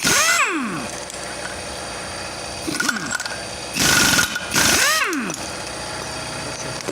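Impact wrench hammering in short bursts, three times, each burst followed by the tool's whine winding down, as it works the seized ball joint loose.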